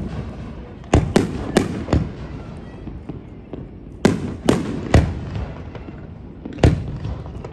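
Aerial firework shells bursting: about eight sharp booms in three clusters, each trailing off in a rumbling echo.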